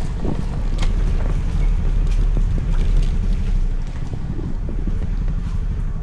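Wind buffeting the microphone of a scooter rider riding in heavy rain: a steady low rumble with a few scattered sharp taps.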